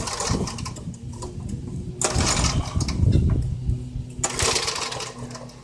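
Small gasoline engine of a garden tiller running steadily while tilling, with louder, rougher stretches about two seconds in and again after four seconds.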